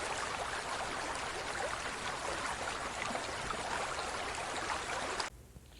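Aquarium water trickling: a steady hiss that cuts off abruptly about five seconds in.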